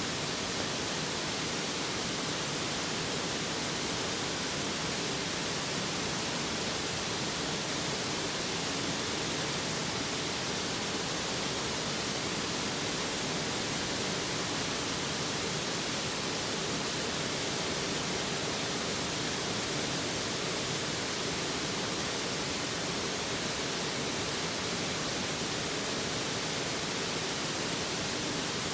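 A mountain stream flowing close by, giving a steady, even rushing hiss of water that does not change.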